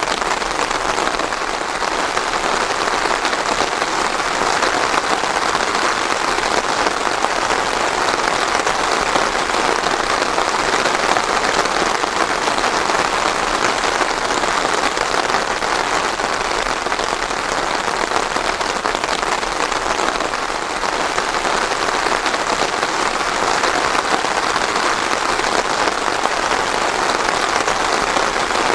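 Steady rain falling and pattering on surfaces, an even hiss without thunder.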